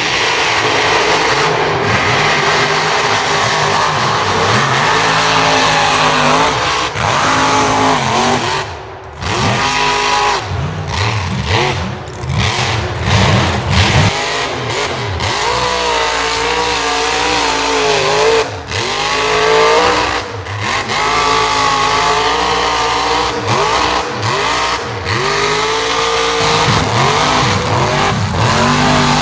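Mega mud truck engine revving hard, its pitch rising and falling over and over, with a short drop in loudness about nine seconds in.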